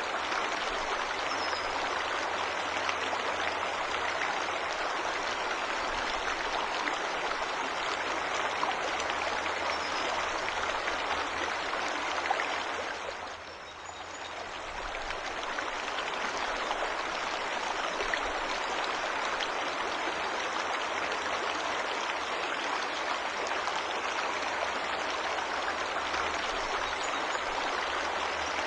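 Waterfall rushing steadily, a continuous noise of falling water that dips briefly about halfway through and then swells back.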